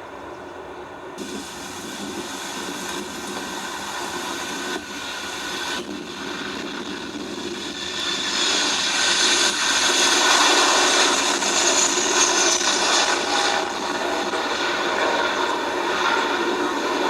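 Jet airliner passing close by, its engine noise and whine building to a peak about ten seconds in, then easing slightly.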